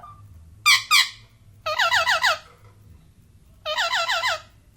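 Indian ringneck parrot calling: two short calls, then two runs of quick falling notes, each under a second long and about two seconds apart, over a faint low hum.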